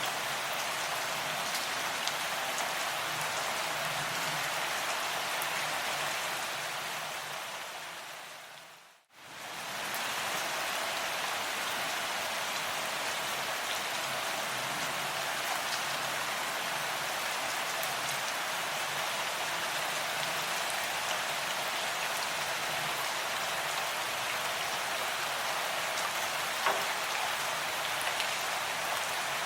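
Steady rain falling, with scattered individual drop ticks. About nine seconds in it fades away to silence and quickly comes back.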